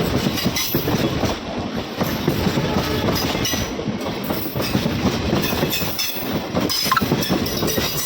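Passenger express train running, its wheels clattering over the rail joints under a steady rumble.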